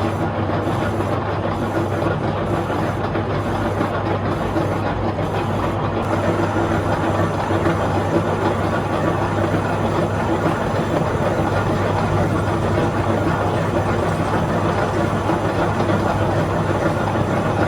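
Shop machinery running steadily with a constant low hum and a noisy wash above it. For the first six seconds the high end pulses about once a second, then it evens out.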